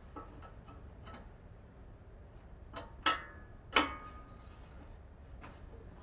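Metal tools and parts knocking and clinking against each other, with scattered light clicks and two louder ringing clanks of metal on metal, about three seconds in and again just under a second later.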